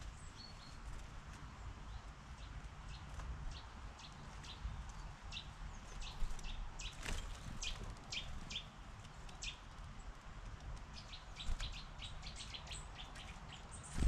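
Small wild garden birds chirping, short high calls coming in quick runs and growing busier through the middle and later part, over a low steady rumble. One sharp tick about halfway.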